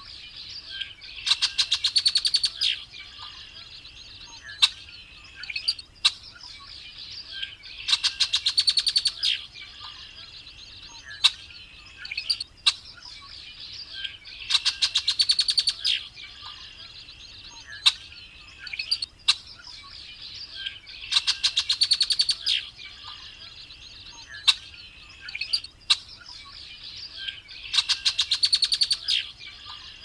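Red-winged blackbird singing: five buzzy, trilled songs about six and a half seconds apart, with short sharp call notes in between, over a steady high background sound.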